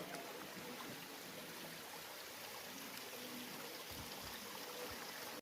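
A stream flowing with a steady hiss of running water, with a few faint low knocks about four seconds in.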